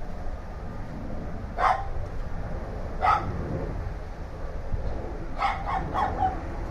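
Dog barking: two single barks a second or so apart, then a quick run of three or four barks near the end.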